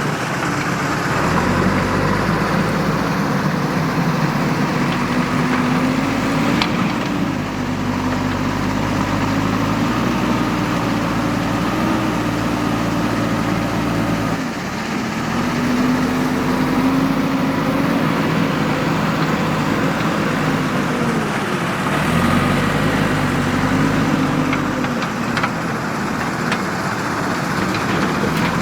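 Diesel engine of a JCB 3DX backhoe loader running steadily, its pitch rising and falling every few seconds as the machine works, with a few faint knocks.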